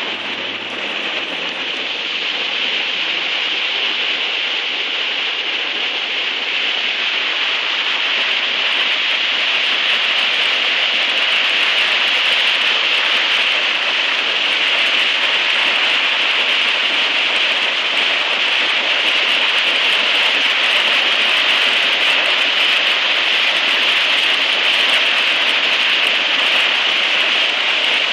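Flash-flood water rushing and churning in steady white-water waves over a road edge, growing louder over the first several seconds and then holding steady. A faint low hum sounds under it in the first few seconds.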